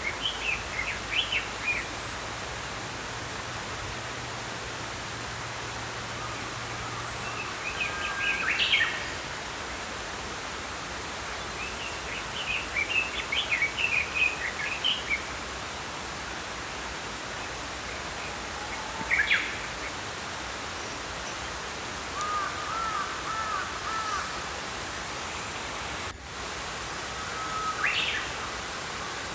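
Small songbirds chirping in short scattered bouts over the steady rush of a flowing stream.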